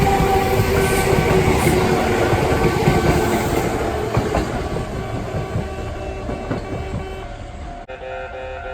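A Kintetsu electric train passing, its wheels clattering over the rails, with the noise slowly dying away. About 8 s in, the sound cuts abruptly to a level-crossing alarm ringing in steady tones.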